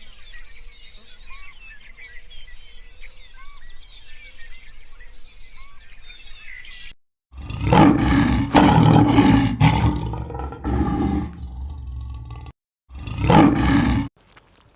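Small birds chirping and twittering, then a cut to a large animal roaring loudly in deep, rough calls. There is a long bout of calls and then one short roar near the end.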